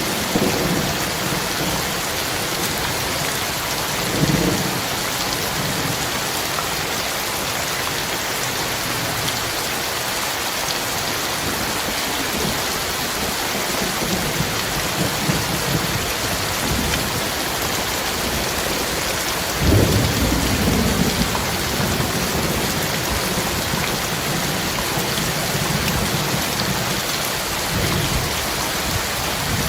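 Heavy rain falling steadily, with low rolls of thunder rumbling through it several times; the strongest roll comes about two-thirds of the way in.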